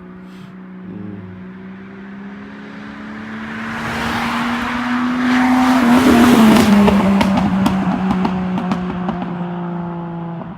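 Jeep Cherokee XJ with a new loud aftermarket exhaust cruising, its exhaust drone holding a steady low tone. Midway a loud rushing swell builds, peaks and fades, with crackly pops after it.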